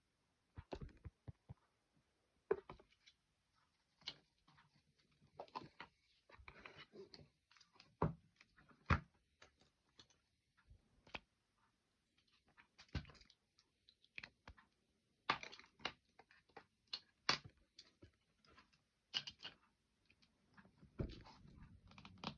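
Scattered light clicks, taps and short rustles of a phone and its case being handled, coming irregularly with quiet gaps between them.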